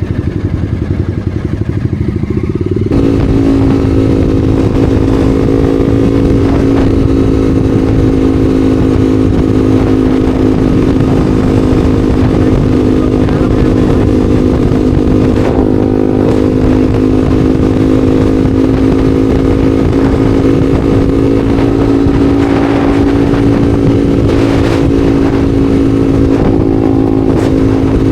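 Honda CBR300R's single-cylinder engine under way: the engine note climbs for about three seconds as the bike accelerates, then settles into a steady, even cruising tone.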